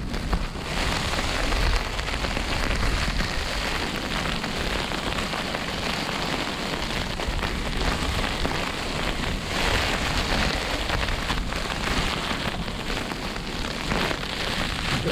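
Wind-driven hail hitting the fabric of a Scarp 1 tent in a steady, dense crackle, with a low rumble of storm wind underneath.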